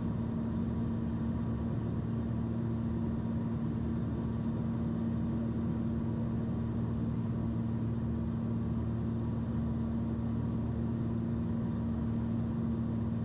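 Cessna 340's twin piston engines and propellers heard in the cockpit at steady cruise power, an even, unchanging drone with a strong low hum.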